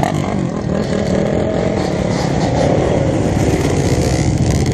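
Dirt bike engines running, loud and steady.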